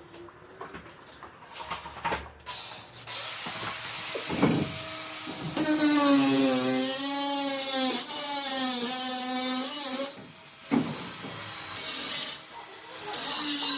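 Power tool running in several bursts. Its motor whine wavers in pitch over a hiss and is loudest in the middle.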